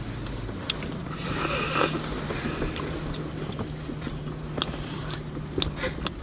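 Eating sounds: chewing with small clicks of utensil and food container, and a brief rustle about a second in, over a steady low hum in the car.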